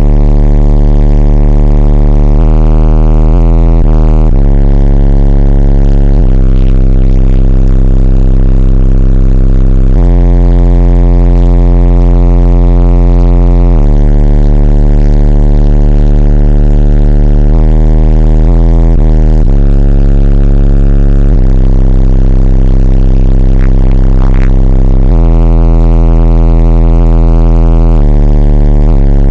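Four 15-inch Incriminator Audio Warden subwoofers in a box tuned to 30 Hz playing very loud, heavily distorted deep bass notes that jump to a new pitch every few seconds.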